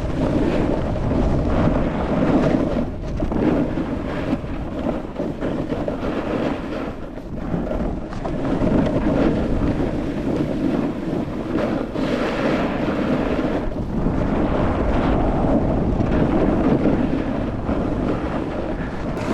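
Wind rushing over the microphone of a board rider moving downhill, with a steady low rumble and the hiss of the snowboard sliding on snow, swelling and easing as speed changes.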